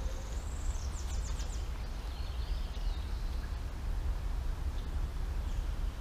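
Birds calling in woodland: a quick run of high notes about a second in, then another high call two to three seconds in, over a steady low rumble.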